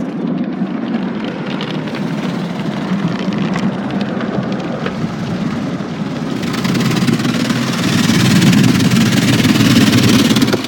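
Tunnel car wash brushes and water spray working over the car, heard from inside the closed cabin as a steady wash of noise. It grows louder and hissier about six and a half seconds in.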